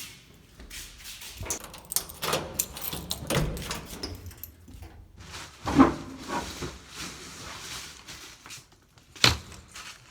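Irregular bumps, clicks and rustling of things being handled and moved, with two sharp, loud knocks about six and nine seconds in.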